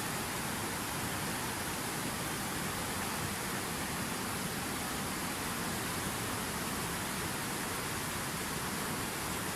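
Fountain waterfall: water falling steadily in an even, unbroken rush.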